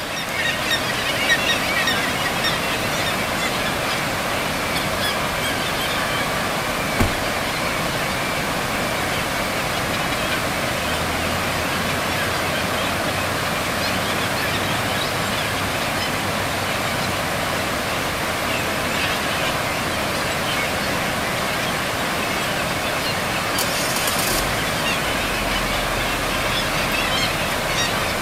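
Many gulls calling over and over above a stream of spawning pink salmon, against the steady rush of flowing water.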